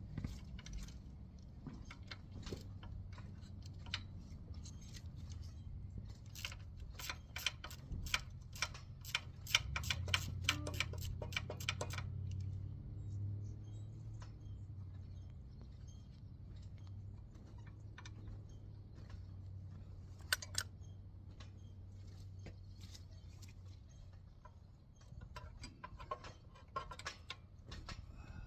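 Metal hand tools clinking and clicking, with a quick run of sharp clicks in the middle, over a steady low hum.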